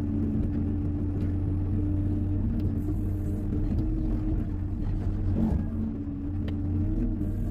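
Diesel engine of a Hyundai 140 wheeled excavator running steadily under light load, with a few faint clicks and knocks.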